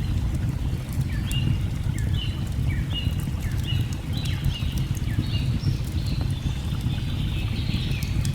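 A bird calls in short, pitch-curving chirps about twice a second, then more busily near the end. Under it run a steady low rush of falling water and the sharp crackle of a wood fire.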